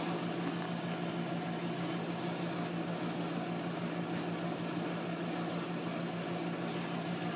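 New Frigidaire dishwasher running, its motor giving a steady low hum over an even rushing noise.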